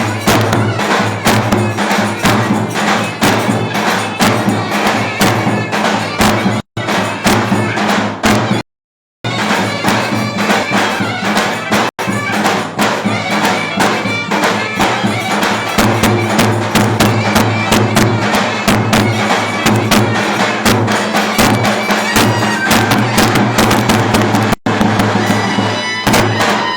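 Turkish clarinet and davul drum playing lively folk dance music, the reedy clarinet line over a dense beat of drum strokes. The sound cuts out briefly a few times, longest about nine seconds in, and fades out at the very end.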